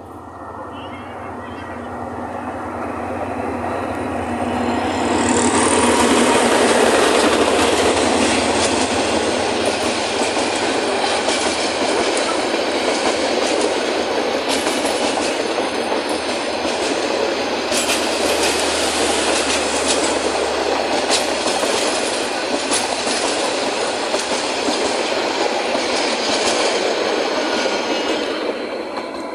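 Diesel locomotive hauling a Bangladesh Railway intercity passenger train past at close range. The engine's rumble grows over the first six seconds, then the coaches roll by with steady wheel-on-rail noise and repeated clacking over rail joints, fading near the end.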